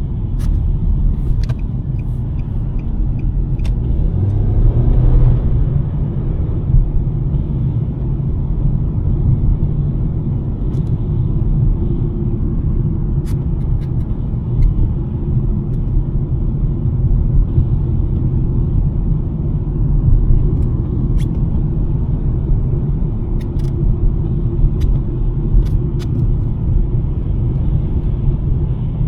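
2023 Nissan Sentra driving, heard as a steady low road-and-tyre rumble with the engine underneath. It swells briefly about five seconds in, and faint scattered clicks come through.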